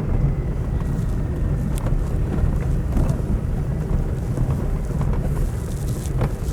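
A car driving along a rough farm road, heard from inside the cabin: a steady low rumble of engine and tyres with scattered small knocks and rattles.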